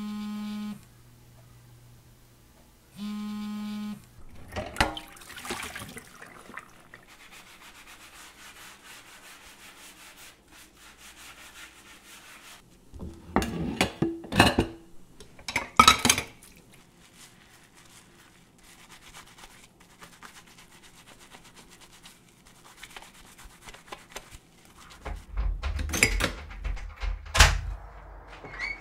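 Two short electronic buzzer tones, then scattered knocks and clattering, with a run of heavy thumps and low rumble near the end.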